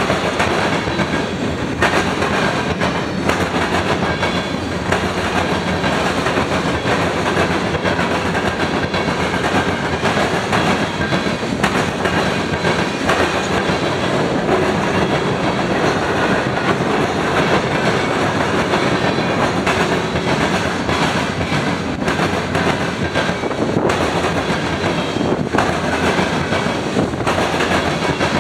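Freight train cars rolling past at close range: a steady rumble of wheels on rail with repeated clicks as the wheels cross rail joints.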